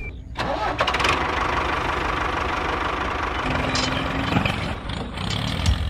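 Tractor engine running steadily, coming in abruptly just after the start.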